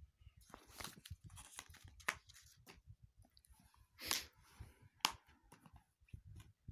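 Handling of a Blu-ray case and its paper insert: papery rustling broken by several sharp plastic clicks, with a longer rustle about four seconds in.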